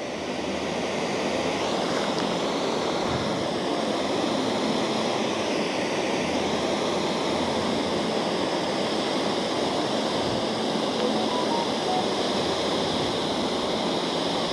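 Steady rushing of flowing creek water, an even hiss-like wash with no breaks.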